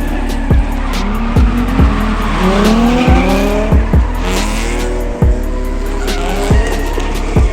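Drift car engines revving, their pitch rising several times in the middle, with tires squealing and skidding. Background music with a steady beat plays throughout.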